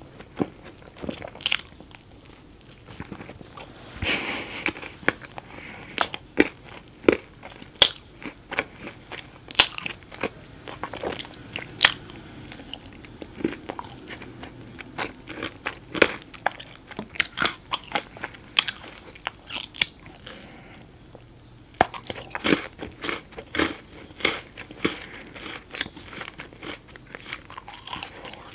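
Close-miked chewing and biting of chocolate cake topped with M&M's and chocolate wafer bars: many sharp, irregular crunches over soft chewing.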